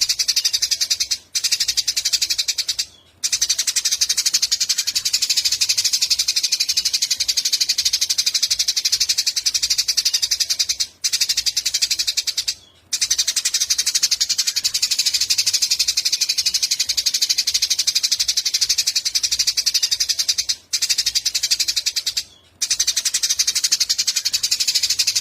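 Small songbird singing a rapid, high buzzing trill, going on in long unbroken bouts with brief pauses about 1, 3, 11, 13, 21 and 22 seconds in.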